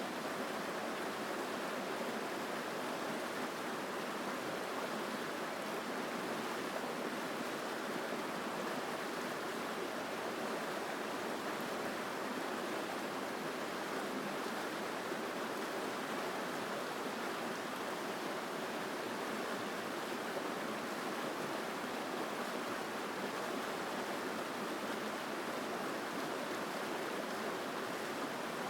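Mountain stream rushing over rocks, a strong, steady flow of water.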